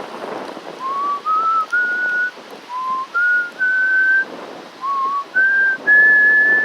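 A person whistling a short tune: three phrases of three notes each, every phrase stepping upward in pitch and the last one held. Behind it, a steady hiss of wind.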